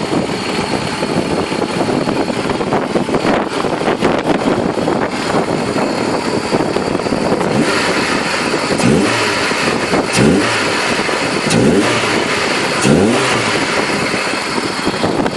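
Hyundai Atos four-cylinder petrol engine running, then revved in four short blips in the second half, each a quick rise in pitch, as the newly installed polyurethane-packed engine mount is checked for movement.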